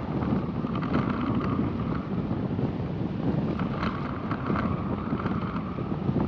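A car being driven along a road: a steady rumble of tyres and engine, with wind on the microphone. A faint higher hum comes in twice.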